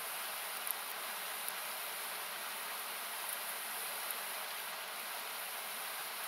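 Steady rushing of a nearby river or waterfall, thinned by equalizer cuts so that it hisses like noise, with a few faint sharp pops from a wood campfire crackling.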